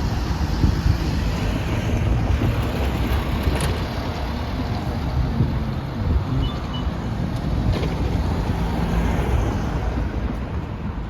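Wind buffeting the microphone outdoors: a steady, irregular low rumble.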